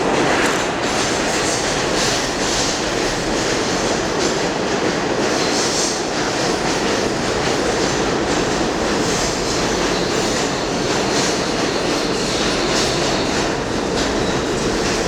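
Subway train running on the rails: a steady, loud rumble and rattle of wheels and cars.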